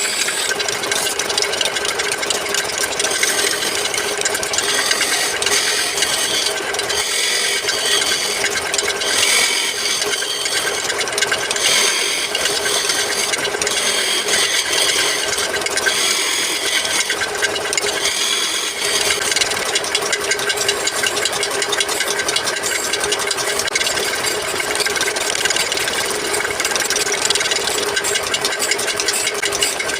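A power tool running steadily with a constant motor tone while it works wood, the cutting or sanding noise continuing without a break.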